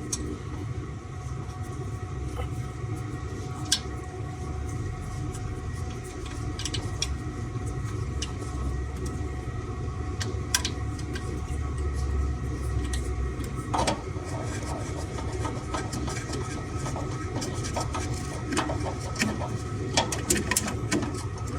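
Chinese diesel heater running in another room: a steady low hum with a constant whine. A few short clicks and taps from plastic casing parts and screws being handled sound over it.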